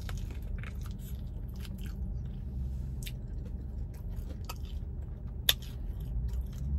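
Close-up mouth sounds of someone biting and chewing a chicken wing: irregular short smacks and clicks.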